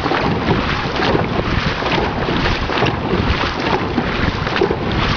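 Wind buffeting an open microphone aboard a dragon boat on the water, a loud, steady rushing.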